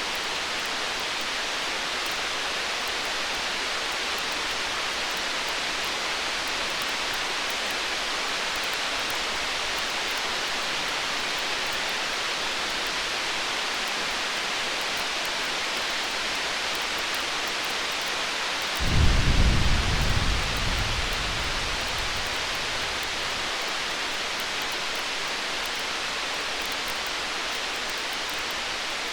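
Steady, even hiss of a storm ambience. About two-thirds of the way in, a low rumble of distant thunder rolls in suddenly and dies away over about four seconds.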